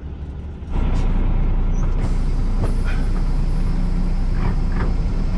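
International semi truck's diesel engine running under way, a loud steady low rumble. It jumps up in level about a second in.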